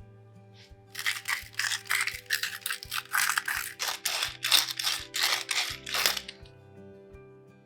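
A quick run of about fifteen short rasping strokes, some two or three a second, starting about a second in and stopping about a second before the end, over soft background music.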